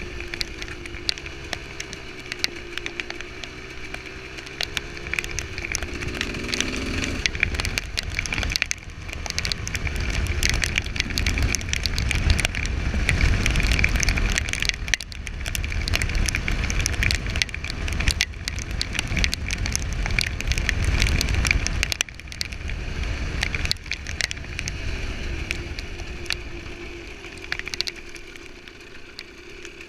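Husqvarna SM125 two-stroke single-cylinder engine running under way, its pitch wavering and rising as the revs change. Heavy wind rumble on the microphone swells through the middle, with many sharp crackles throughout.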